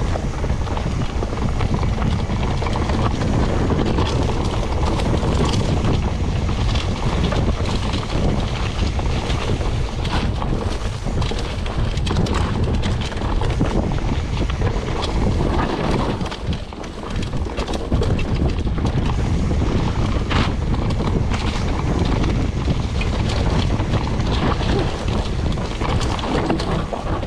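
Wind buffeting the microphone with the rattle and knocks of a mountain bike riding over a rough trail, steady and loud throughout.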